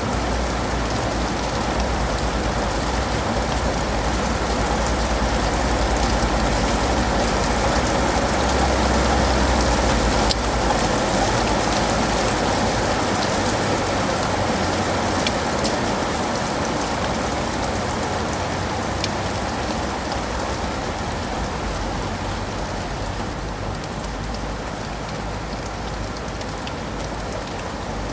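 Steady rain falling, a dense even patter with scattered individual drop ticks and a low rumble underneath that fades after about twelve seconds. The rain swells slightly near the middle and eases a little toward the end.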